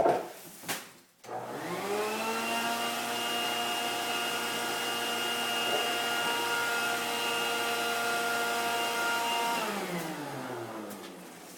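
A few knocks, then an electric motor spins up, runs steadily with a whirring hum for about eight seconds, and winds down, falling in pitch near the end.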